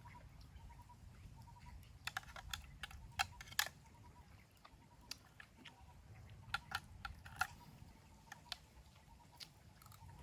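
Faint, irregular clicks and crackles, a few sharper ones in clusters, over a low rumble.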